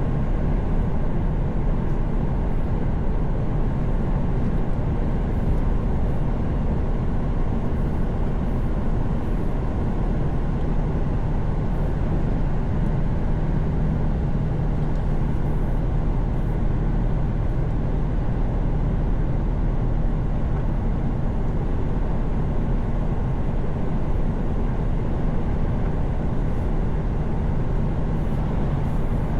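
Mercedes-Benz Actros truck cruising at highway speed, heard from the driver's cab: a steady low engine drone mixed with road and tyre noise.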